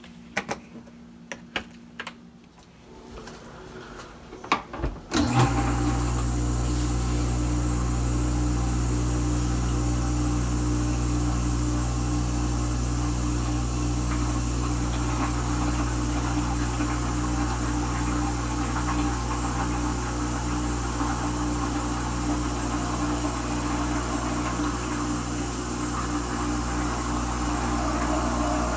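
Kenmore Ultra Wash 3 dishwasher starting its cycle: a few light clicks, then about five seconds in its pump motor starts with a steady hum and water noise that holds on.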